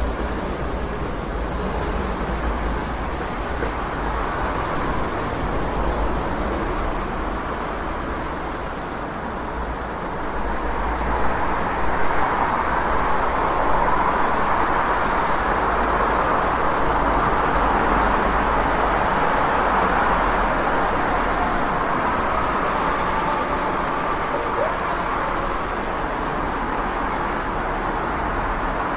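City street traffic ambience: a continuous wash of passing vehicles over a steady low rumble. It swells louder for several seconds in the middle as traffic passes close, then eases back.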